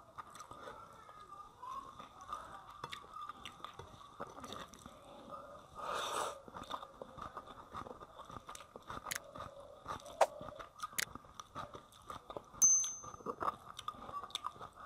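A person eating rice and fish curry by hand: chewing with many short mouth clicks and smacks, and fingers working rice and curry on the plate. About two-thirds of the way through there is a loud sharp click with a brief high ring.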